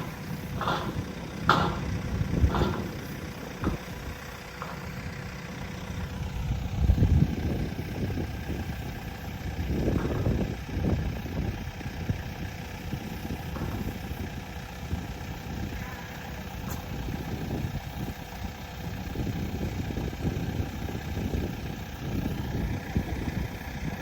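Farm tractor engine idling steadily, with several short knocks and clanks in the first few seconds.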